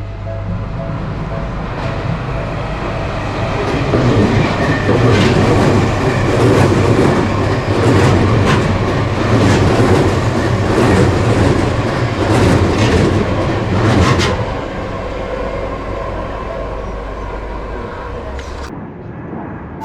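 A train passing close by: a rumble builds, then wheels clack rapidly over the rail joints for about ten seconds before the sound fades away.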